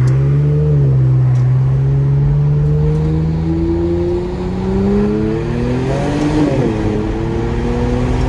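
Straight-piped Infiniti Q50 exhaust under hard acceleration, its pitch climbing steadily through the gear. About six seconds in the note breaks and drops in pitch, as at a gear change, then climbs again.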